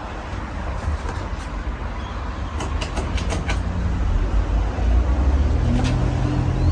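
Hampton Bay Cameron II Plus ceiling fan with a 188mm spinner motor running, its moving air buffeting the microphone as a steady low rumble that grows louder in the second half, with a few faint ticks near the middle.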